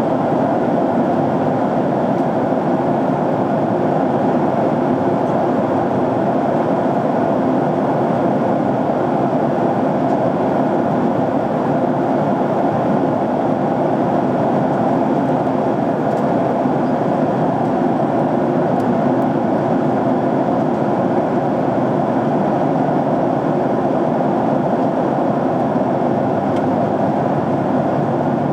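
Steady cabin noise of a jet airliner in flight, an even rush of engines and airflow heard from inside the cabin by the window, unchanging throughout.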